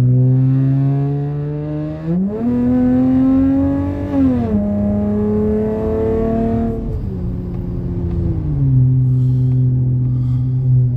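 Car engine and MagnaFlow Magnapack exhaust under way: the note jumps up in pitch about two seconds in and climbs as the car accelerates, then drops in several steps as the revs fall.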